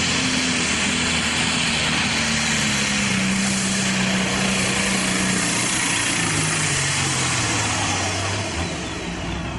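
Pro Stock pulling tractor's diesel engine running flat out under load down the track, its pitch falling steadily as the engine is pulled down, easing off near the end.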